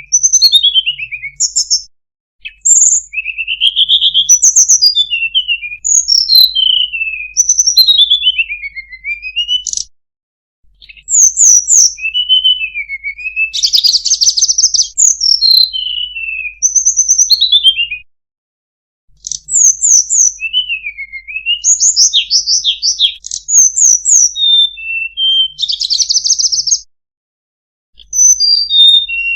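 Tledekan gunung songbird singing: clear whistled notes that slide down and up, mixed with short buzzy trills, delivered in bouts of about eight seconds with brief pauses between them.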